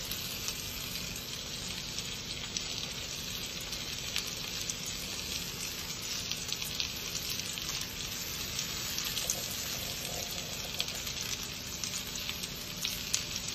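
Salmon fillets sizzling in hot oil in a frying pan: a steady hiss with scattered small crackles.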